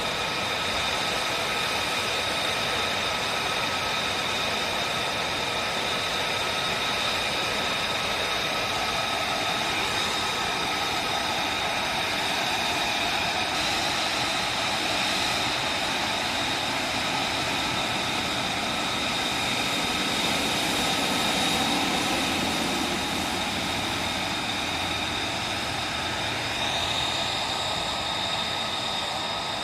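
F-35B Lightning II's Pratt & Whitney F135 turbofan running steadily, a jet rush with several high whine tones over it; a higher whine rises near the end.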